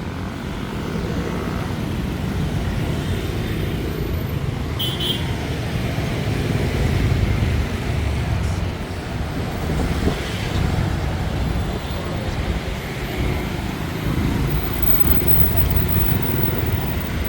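Busy street traffic dominated by motorbikes: a steady rumble of engines running and passing, with a brief high beep about five seconds in.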